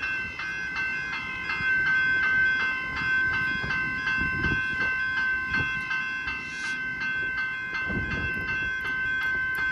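Railway level-crossing electronic bell ringing continuously in a steady, evenly repeating ding while the crossing is still active, over a low rumble.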